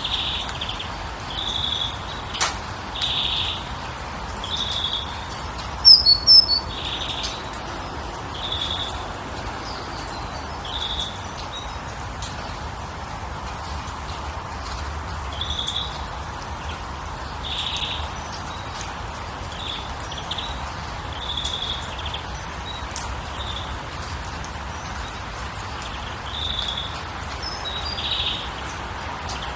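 Bird calls over a steady background hiss: a short, high note of even pitch repeats every second or two. About six seconds in comes a quick cluster of higher chirps, the loudest moment.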